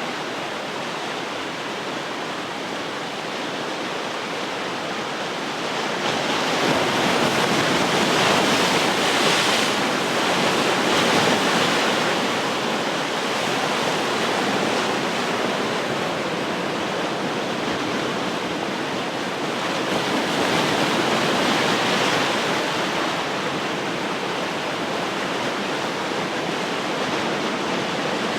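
Ocean surf: waves breaking and washing in, a steady rush of water that swells louder as a wave breaks about six seconds in and again a little past the middle.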